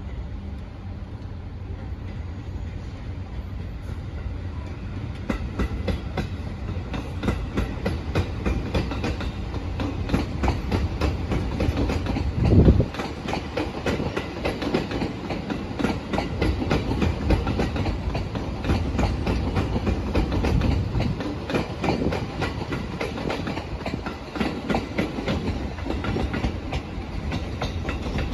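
JR E653-series electric train pulling out and rolling slowly past, its wheels clicking in a steady run over the rail joints and points under a low running rumble. There is one brief loud thump about halfway through.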